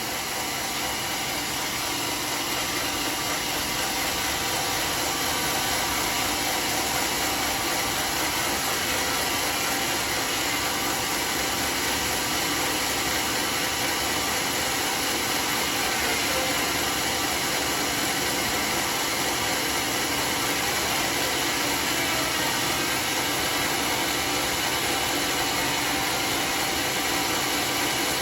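Homemade sawmill running steadily while sawing a teak log, a continuous even machine noise that swells slightly over the first few seconds and then holds.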